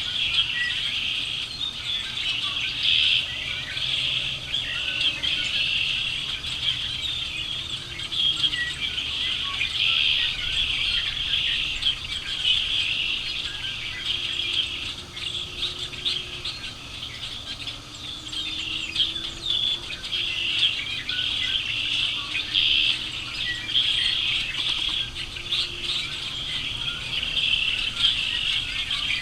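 A large flock of birds chirping together in a dense, continuous chorus of short, high calls.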